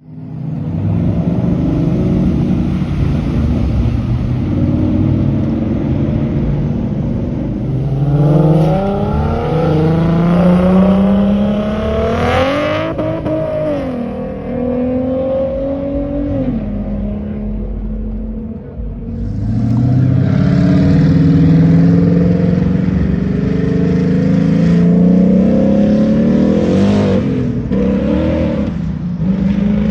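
Boosted car engines accelerating hard, revving up with rising pitch through the gears. There are two main hard pulls, the first about a quarter of the way in and the second about two-thirds in, each ending in a sharp high-pitched sweep.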